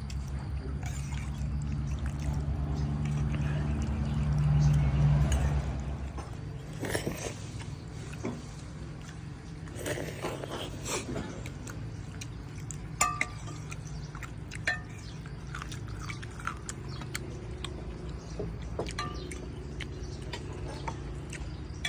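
Eatery background: scattered light clinks and knocks of dishes and utensils over a steady low rumble, which swells about five seconds in and then drops away.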